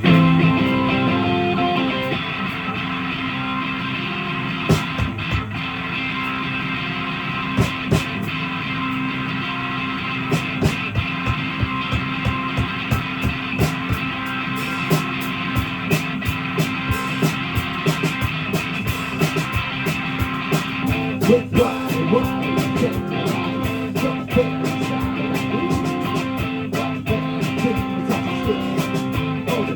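Live rock music: a guitar strumming and picking chords in a steady instrumental passage, with no singing.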